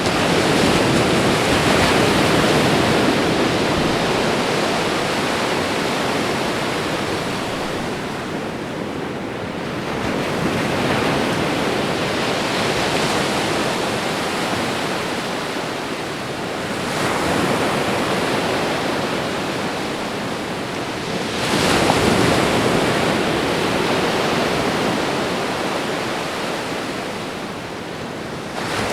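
Ocean waves washing onto a shore, a steady rush of surf that swells quickly and then slowly fades about four times, at uneven intervals.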